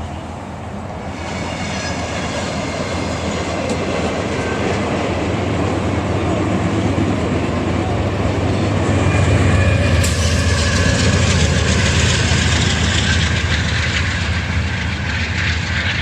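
Train approaching and passing close by: a low rumble that builds steadily to its loudest about ten seconds in, with high thin ringing tones from the wheels on the rails and clicking over the rail joints.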